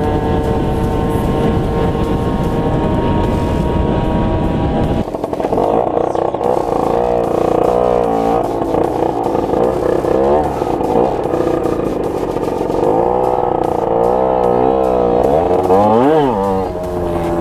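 Tuned Derbi DRD 50cc two-stroke engine with a Voca Rookie kit and de-restricted 17.5 mm carburettor, ridden on the road. It holds a steady high note for about five seconds, then the sound changes abruptly and the revs rise and fall again and again as the bike accelerates and shifts.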